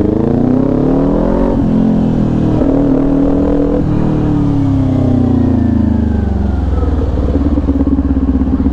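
Kawasaki Ninja 400's parallel-twin engine through an SC Project exhaust, revving up twice with a short break between, then dropping in pitch as the bike slows and settling to a steady low note near the end.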